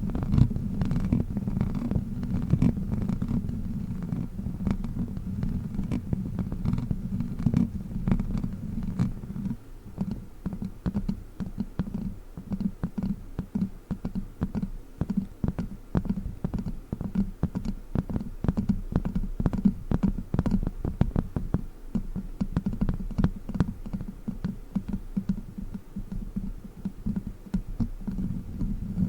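Witch finger toy worked right against the microphone: a dense run of quick, low, muffled thumps and scratches. It is continuous for about the first nine seconds, then turns into separate strokes at several a second.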